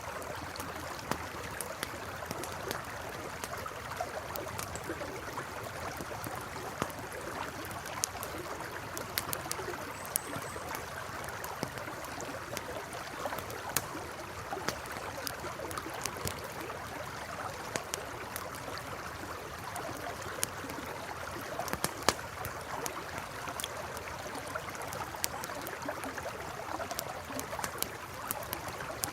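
A wood campfire crackling, with irregular sharp pops and snaps, over the steady rush of a flowing river. One pop about three-quarters of the way through stands out as the loudest.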